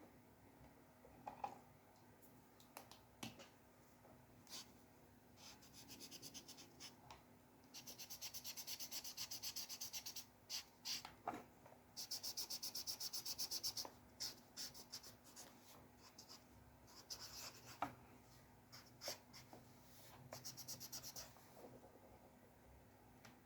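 Drawing strokes on paper: scattered single scratches and taps, with two runs of rapid back-and-forth scratching at about ten strokes a second, each lasting about two seconds.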